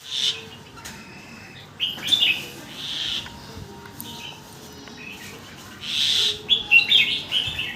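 Red-whiskered bulbul singing a series of short whistled song phrases: one near the start, a cluster two to three seconds in, and a quick run of phrases from about six seconds on.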